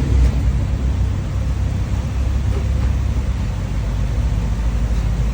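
Car engine running steadily with a low exhaust note from a freshly worked-on exhaust.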